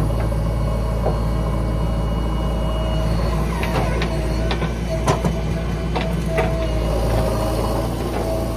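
Tractor engine running steadily at a constant speed, with a string of sharp knocks and clatters from about three and a half seconds in.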